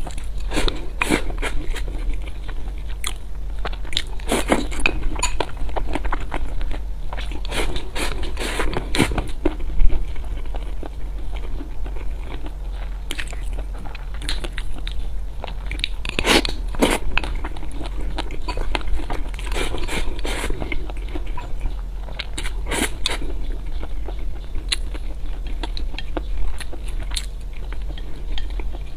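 Close-miked eating: crunchy bites and chewing of food, in irregular clicks and crunches, with one sharp, louder crunch about ten seconds in. A steady low hum sits underneath.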